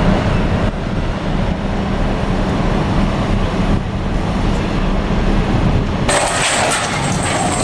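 Heavy machinery running with a steady low engine hum; about six seconds in the sound switches abruptly to a harsher, hissier noise with a thin high whine.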